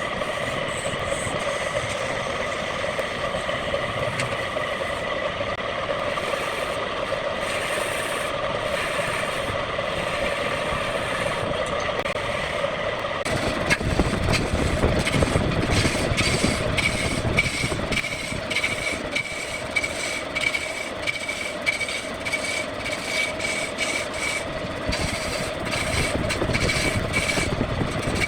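Wood lathe running with a steady motor hum. About 13 seconds in, a louder rough scraping joins it as a turning tool cuts into the spinning wood.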